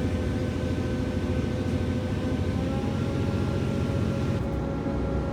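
Moving vehicle heard from inside, with a steady low rumble and a whine of several steady tones that rises slightly in pitch about three seconds in.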